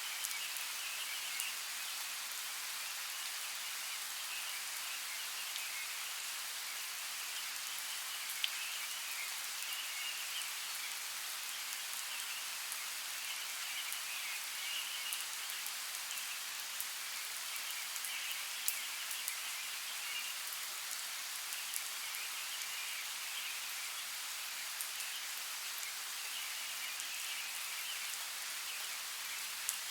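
Steady hiss of water, dotted with small drip-like ticks, under a faint high chirring that swells and fades every few seconds.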